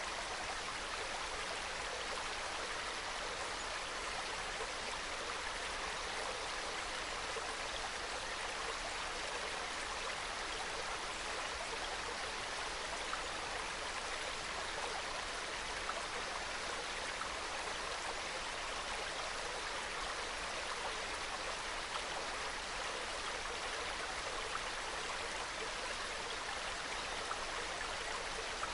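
Water of a small mountain stream flowing and trickling over rocks, a steady, soft babble with no change.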